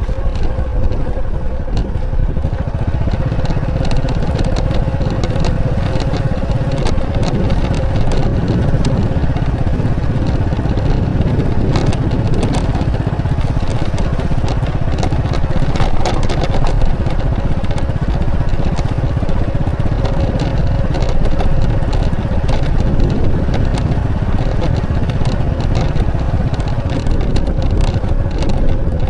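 Motorcycle running at a steady cruising speed, engine and road noise holding an even level, with many short crackles scattered through it.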